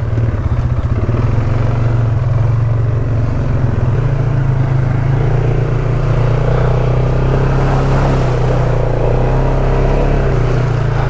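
ATV engine running steadily as the quad is ridden along a trail.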